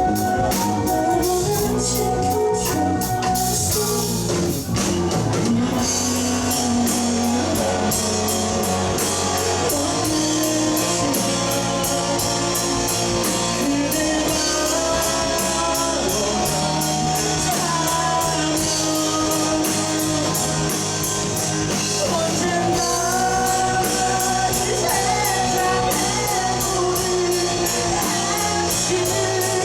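Rock band playing live: electric guitars, bass guitar and drum kit, with a steady beat of cymbal strokes.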